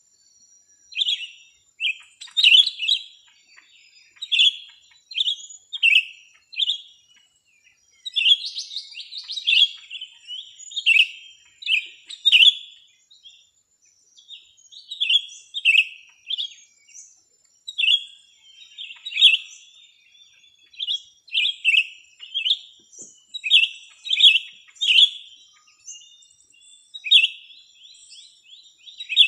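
Small birds chirping, short sharp call notes repeated about once or twice a second with brief pauses, over a thin steady high-pitched tone.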